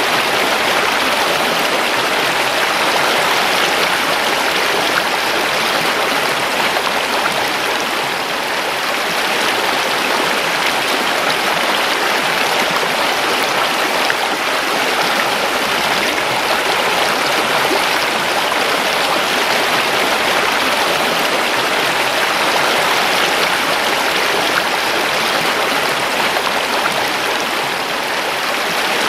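River water flowing and rushing over stones, a steady even wash of sound with no breaks.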